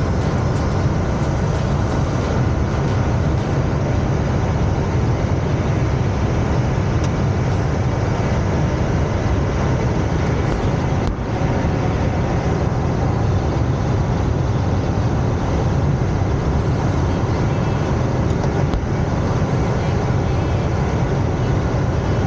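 Steady rush of air around the cockpit of a KR-03 Puchatek glider in unpowered flight after release from tow: a deep, even rumble with a fainter hiss above it.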